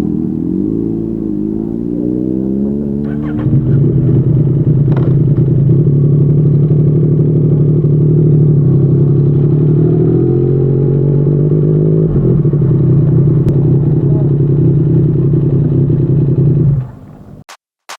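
Yamaha MT-09's three-cylinder engine through a Yoshimura R55 slip-on exhaust. Its pitch shifts over the first few seconds, then it gets louder and runs steadily from about three seconds in. The sound cuts off about a second before the end.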